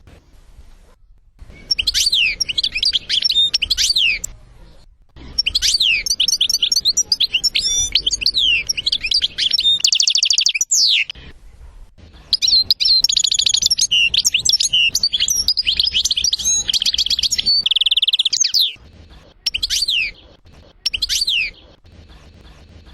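European goldfinch song: rapid twittering phrases of high trills and buzzy notes, in three long bursts with short pauses, then two brief calls near the end.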